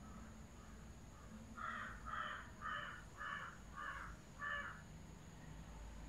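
A bird calling six times in a row, about two calls a second, each call short and evenly spaced.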